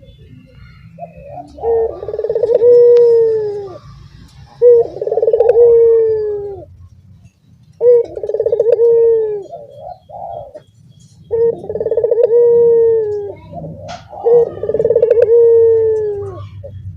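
Caged puter doves (collared doves) cooing in turn, about five long coos roughly three seconds apart. Each coo opens with a fast rolling trill and settles into a held tone.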